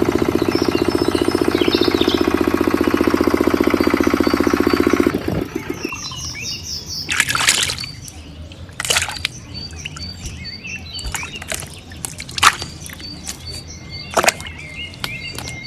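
Mini diesel engine running the pump with a rapid, even beat, cutting off abruptly about five seconds in. Afterwards birds chirp, and a few short, sharp noises come a second or two apart.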